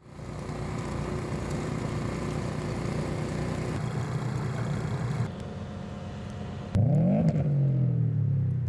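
Motor vehicle engines running, with abrupt changes about five seconds in and again near seven seconds; in the last part a louder engine revs, its pitch sweeping up and down.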